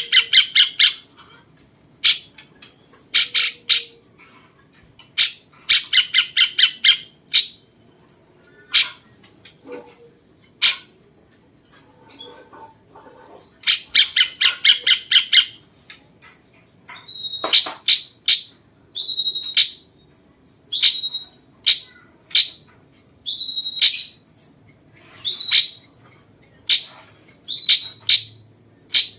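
Cucak cungkok songbird singing in repeated bursts of rapid, sharp chattering notes, a style likened to the cucak jenggot's song, over a steady high insect trill.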